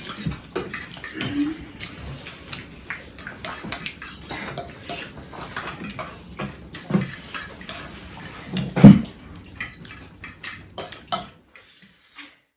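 Cutlery and dishes clinking and scraping at a meal, with many short clicks and one louder low knock about nine seconds in; the sound cuts off shortly before the end.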